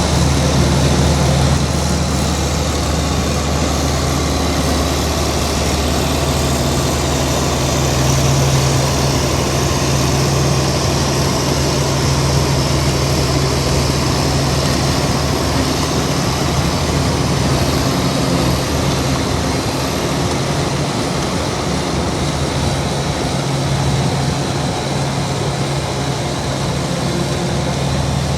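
Heavy diesel engine of earthmoving machinery running steadily at a constant speed, a deep even drone.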